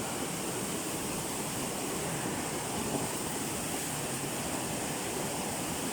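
Steady rushing of a river in spate, running high and fast after two days of torrential rain.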